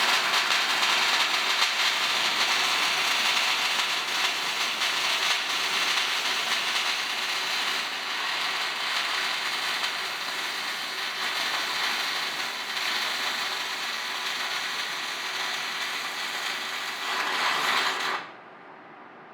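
Arc welding run by a cobot welding torch: a steady, loud crackling hiss of the arc, which cuts off suddenly near the end as the weld finishes.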